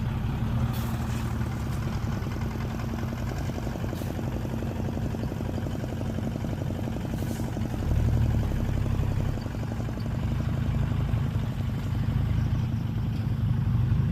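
Heavy diesel engine of earthmoving machinery running steadily, growing louder for a moment about eight seconds in, with a few faint clanks.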